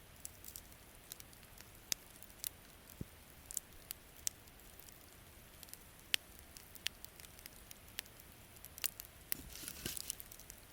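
Wood campfire crackling, with sharp irregular pops every half second or so over a faint steady hiss, and a brief flurry of denser crackling near the end.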